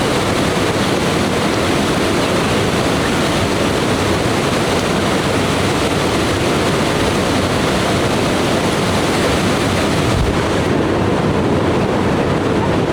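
Waterfall and mountain stream rushing steadily, an even, unbroken noise.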